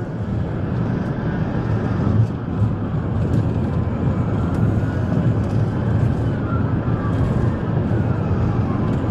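Steady engine and road rumble of a pursuing police vehicle travelling at about 50 miles an hour, with faint siren tones rising and falling a few times.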